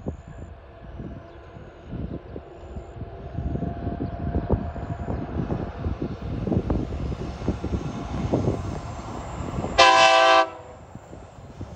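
TasRail TR-class diesel locomotives hauling a freight train draw nearer, a low rumble building with scattered knocks from the wheels and wagons. About ten seconds in the leading locomotive gives one short, loud horn blast, a warning for the road level crossing.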